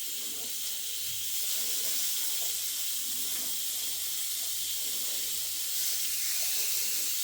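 Breaded chicken strips frying in hot oil, a steady high sizzle that grows louder about a second in and again near the end.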